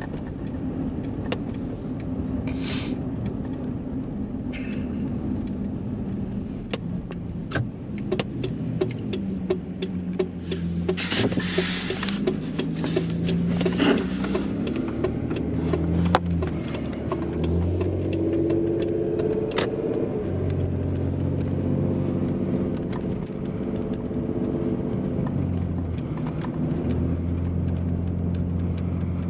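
A vehicle's engine running steadily, its pitch rising and falling as it changes speed, with scattered sharp clicks.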